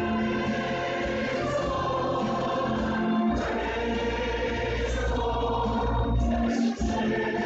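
A church worship choir singing a gospel hymn together with instrumental accompaniment, with a heavy low bass in the middle few seconds.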